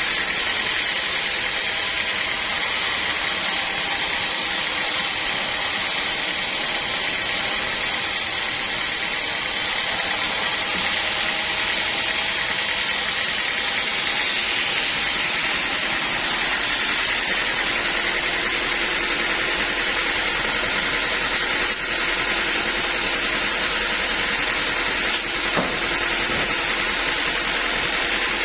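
Band sawmill running steadily, its blade sawing through a log with a constant high whine.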